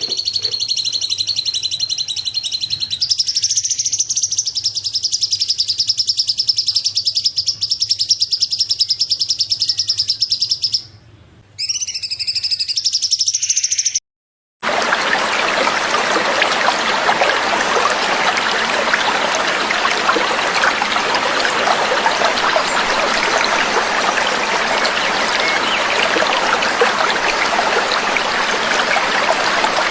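Recorded songbird singing a rapid, continuous high-pitched trill with one brief break, which cuts off about halfway through and gives way to steady trickling water.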